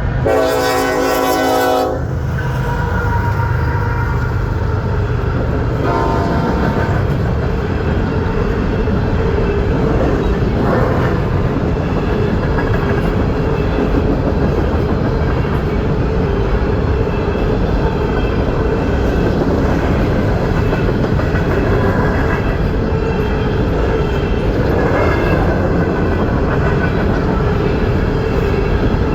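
A train led by an EMD SD70ACe diesel-electric locomotive goes by. Its air horn blows loudly for about two seconds at the start and briefly again around six seconds in. After that comes a steady, loud rumble of the engine and of wheels on the rails.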